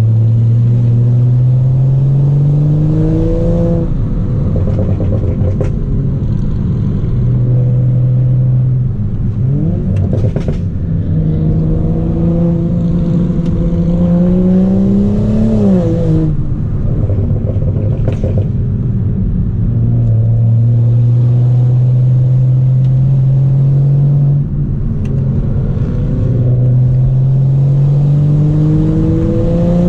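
Straight-piped BMW 335i's N55 turbocharged inline-six under hard acceleration, its revs climbing in long pulls and the pitch dropping back at each gear change, several times over.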